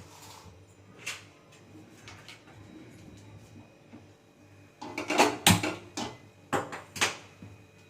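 Kitchen handling noises as a kadai is set on the stove and oil is got ready for deep frying: a single click about a second in, then a cluster of knocks and clatters about five to seven seconds in.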